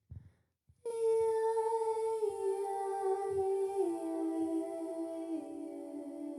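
A woman's voice humming one long, slow melody that steps down in pitch several times, beginning about a second in after a brief low thump.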